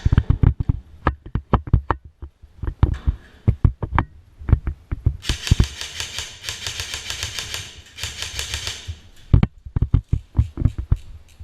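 Airsoft electric gun firing three long full-auto bursts back to back, a fast run of ticks about five seconds in, lasting about four seconds. Irregular thumps, louder than the bursts, come before and after.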